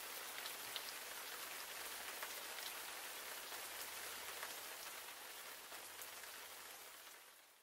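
Steady rain falling, a soft even hiss with scattered drop ticks, fading out near the end.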